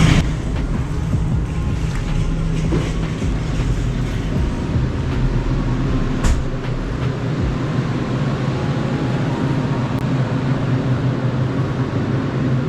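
Steady low hum of a walk-in beer cooler's refrigeration fans, with a single knock about six seconds in.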